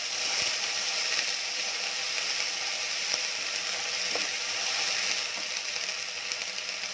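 Ginger-garlic paste and whole spices sizzling in hot oil with a little water in a non-stick kadai, while a wooden spatula scrapes and stirs across the pan.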